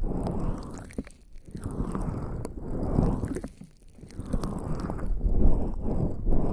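Wet, crackling squelches of skin coated in lubricating jelly being rubbed against a binaural microphone up close. The rubbing comes in strokes, with brief lulls about a second in and again past the middle.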